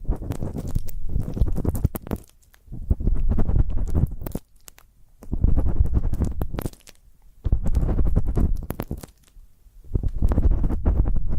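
Close-miked ear-cleaning ASMR: an ear pick or similar tool scraping and rubbing against a microphone's ear. It comes as deep, crackly, scratchy strokes in bursts of one to two seconds, with brief pauses between them.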